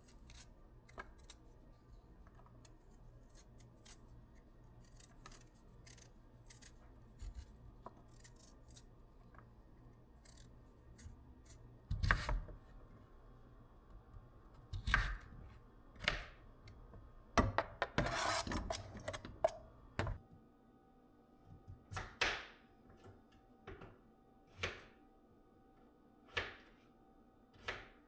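Sharp cutting strokes and snips, a few at first, then one after another about a second or so apart in the second half, over a low steady hum that stops about twenty seconds in.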